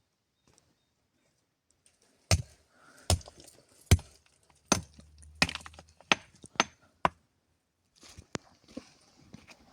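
A series of sharp knocks, about ten irregular strikes, starting a couple of seconds in, the loudest near the middle.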